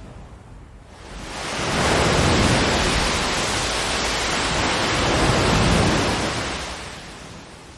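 Ocean surf: a wave swells in about a second in, washes loudly for several seconds, then fades away near the end, over a low rumble.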